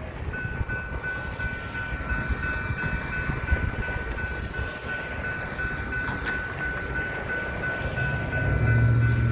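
A train rumbling past, with a steady high ringing tone that pulses slightly, starting just after the beginning. Near the end a loud low hum comes in and the sound grows louder.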